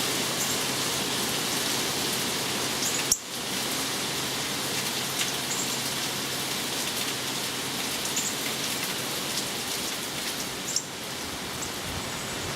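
Steady hurricane rain falling hard, an even hiss with scattered drop ticks. A sharp click sounds about three seconds in and another near the end, each followed by a brief drop in level.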